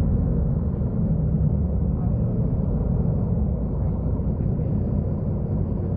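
Mercedes-Benz O-500U city bus diesel engine running steadily, a continuous low rumble.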